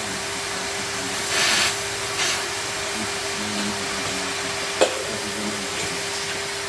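Numatic George wet-and-dry vacuum cleaner running steadily with a constant whine. A brief louder rush of air comes about a second and a half in, and a sharp click near five seconds.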